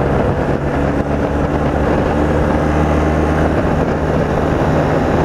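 BMW R80RT's air-cooled flat-twin boxer engine running steadily as the motorcycle is ridden along.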